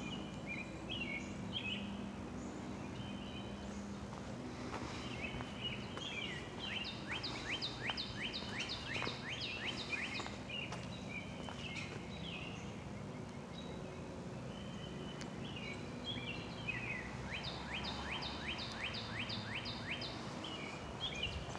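Songbirds singing in woodland: short chirped phrases throughout, and twice a fast run of repeated sharp notes at about four a second, first about seven seconds in and again near the end.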